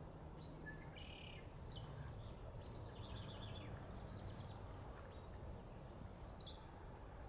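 Faint outdoor ambience with a steady low background rumble, over which small birds give a few short high chirps: one about a second in, a short run of notes around three seconds in, and another near the end.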